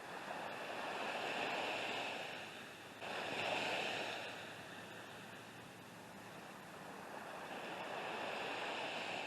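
Ocean surf breaking and washing up the beach, in slow swelling and falling surges, with a sudden jump in level about three seconds in.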